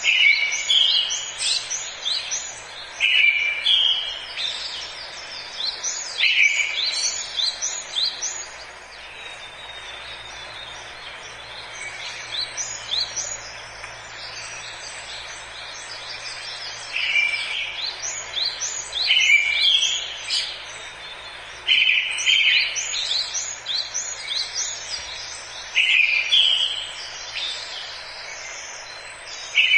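Forest birds singing: a song phrase repeats every two to three seconds, each opening with a strong note and running on into a quick series of high chirps, over a faint steady hiss. The singing thins out for a few seconds in the middle.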